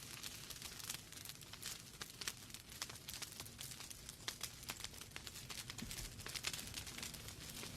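Wood fire burning in a fireplace, logs crackling and popping in quick irregular snaps over a low hiss.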